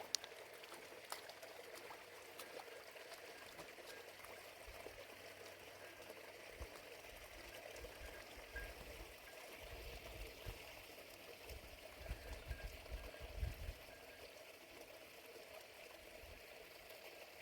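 Faint, steady rush of running water, with a few small clicks and some low wind buffets on the microphone in the second half.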